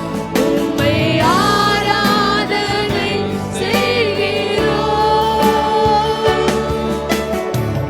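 Tamil Christian worship song sung by a female lead voice over keyboard and bass accompaniment, with sustained, gliding sung notes.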